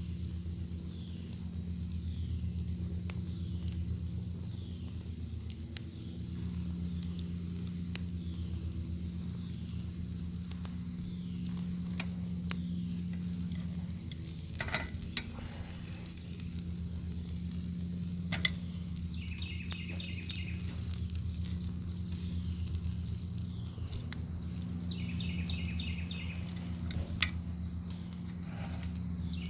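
Bacon sizzling over a wood fire: a steady frying hiss with a few sharp crackling pops, the loudest one near the end, over a low steady hum. Short trains of insect chirps come in twice in the second half.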